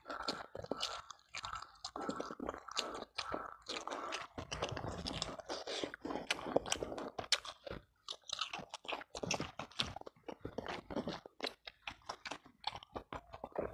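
Close-miked chewing and crunching of a mouthful of food, an irregular run of crackles and mouth clicks with a few brief pauses.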